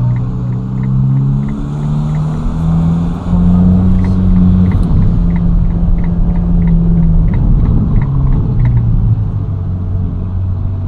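Ferrari Roma's 3.9-litre twin-turbo V8 running under light acceleration. Its pitch rises in steps over the first few seconds, drops back about halfway through, and falls again near the end. A regular light ticking, about three ticks a second, comes early on and again in the middle.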